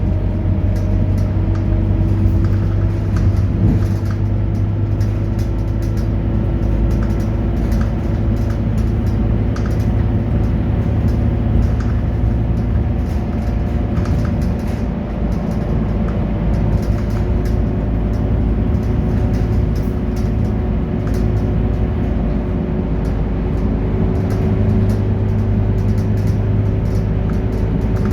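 Scania K230UB city bus running, its diesel engine giving a steady rumble with faint tones that slowly rise and fall in pitch as it pulls and eases off.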